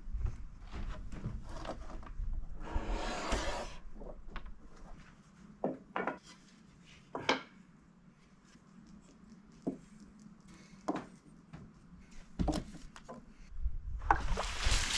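Wooden boards or slabs being handled: scattered knocks of wood on wood and a brief scrape. A loud rushing hiss starts just before the end.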